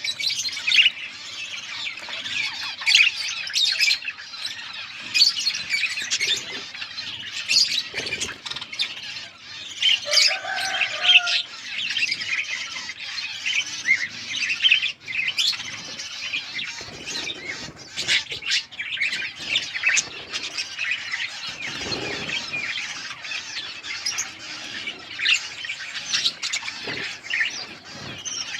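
Several budgerigars chirping and chattering without pause, many quick high chirps overlapping one another.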